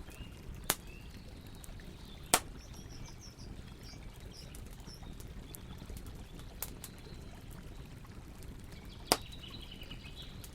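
Wood campfire crackling with a few sharp, loud pops, the biggest about two seconds in and again near the end, over a steady low rush of flowing water. Small birds chirp now and then.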